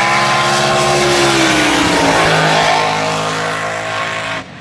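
Front-engine dragster's V8 at full throttle running down the drag strip, loud, its pitch slowly falling. It cuts off abruptly near the end.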